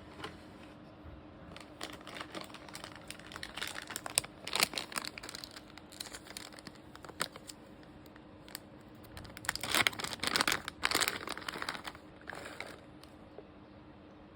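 Crinkling of a plastic cat-treat bag being handled, in two spells of rustling, the first a few seconds in and the second louder, a little past the middle.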